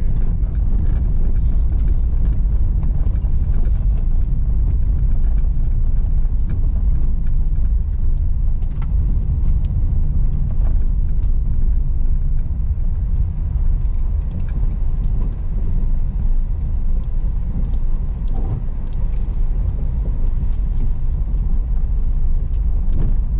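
Car driving over a rough unpaved road: a steady low rumble of tyres and engine, with scattered small knocks and rattles from the rough surface.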